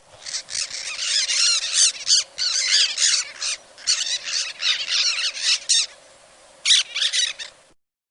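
Birds squawking and chirping, many high calls overlapping. The calls stop for a moment near the end, come back in a short burst, then cut off.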